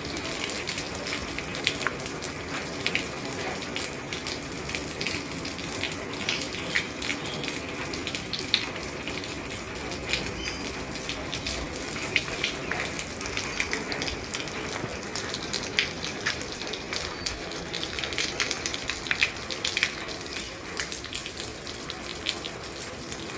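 Rain falling on an old roof: a steady hiss of rainfall, thick with many sharp, irregular drop ticks.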